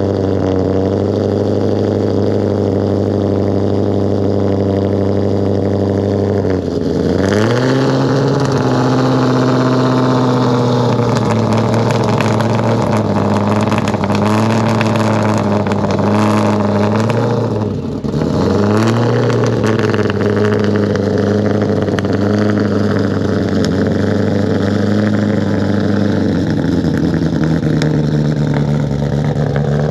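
Shelby GT500 Super Snake's supercharged V8 running loud at a steady low speed, then taken up in revs about seven seconds in and held there with small rises and falls. It dips briefly and picks up again near eighteen seconds, then settles back to a lower speed near the end.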